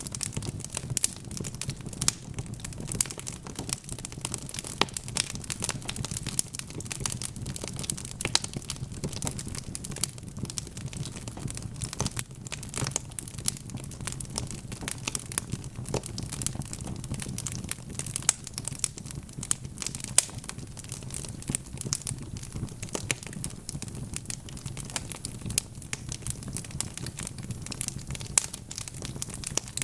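Logs burning in a wood fireplace: dense, irregular crackling with occasional louder pops over a steady low rush of the flames.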